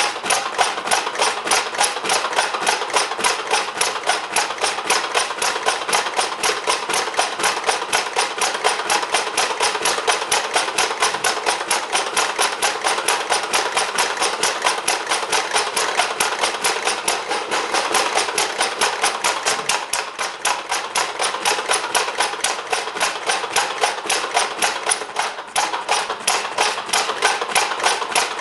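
Replica of Henry Ford's single-cylinder kitchen sink engine running on ether with Model T buzz-coil ignition, firing in a fast, even string of sharp pops. It falters briefly about 25 seconds in, then picks up again.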